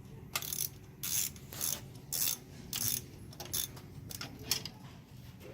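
Ratchet wrench on a long spark plug socket and extension, clicking in short repeated strokes, roughly one to two a second, as a spark plug is loosened.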